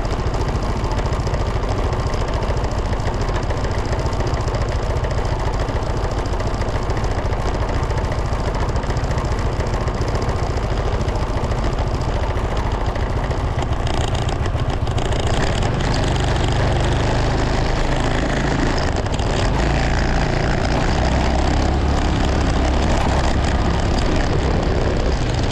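Motorcycle on the move: steady engine and wind noise, with the low rumble getting heavier from about halfway through.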